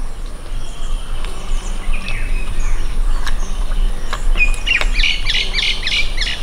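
Wild birds calling. Near the end one bird gives a quick run of repeated calls, about four a second, the loudest sound here.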